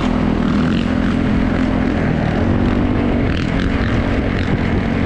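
Engine running steadily at speed under a low rushing rumble, with an even hum that barely changes pitch.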